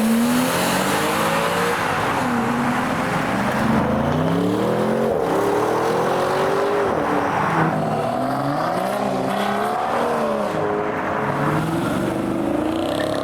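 Car engines accelerating away, the revs climbing and dropping back again and again through gear changes, over a steady rush of road noise.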